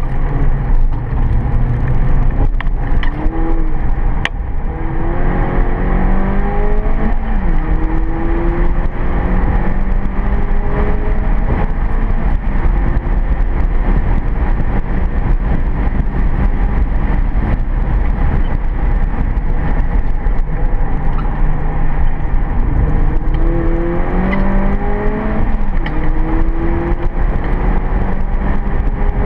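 Mini Cooper GP's four-cylinder engine heard from inside the cabin, driven hard: its pitch climbs and steps at gear changes about five seconds in and again near the end, over steady engine drone and tyre and road noise.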